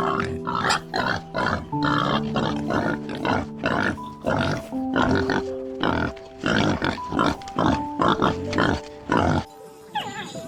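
Soft background music with an animal making a quick run of short, noisy calls, about two or three a second, which stop about nine seconds in.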